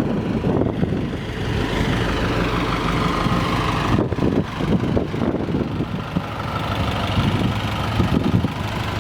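Isuzu NQR's 5.2-litre four-cylinder turbo diesel engine idling steadily.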